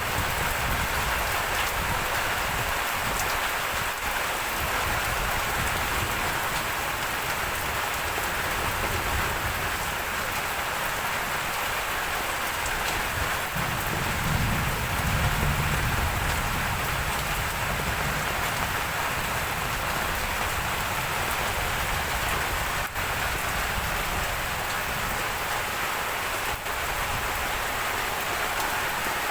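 Steady rain falling on tropical leaves, an even patter throughout. A low rumble swells briefly about halfway through.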